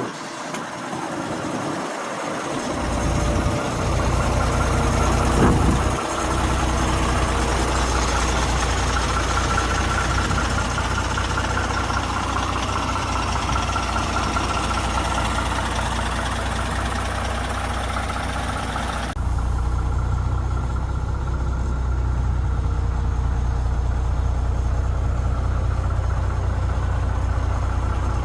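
ERF ECT 420 6x2 tractor unit's diesel engine coming up to speed over the first few seconds, with a brief rev about five seconds in, then idling steadily. About two-thirds of the way through, the sound abruptly turns duller.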